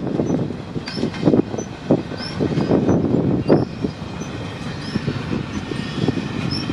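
Freight train cars rolling past, wheels clattering and rumbling irregularly over the rail joints, with short high squeaks recurring about once a second.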